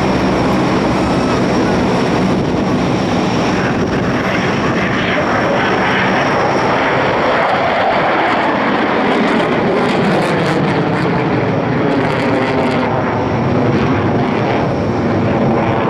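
Propeller airplane engine running loud and steady as the aircraft flies past.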